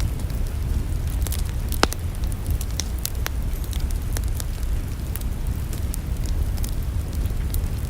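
Wood fire in a fireplace crackling, with irregular sharp pops, one louder about two seconds in, over a steady low rumble.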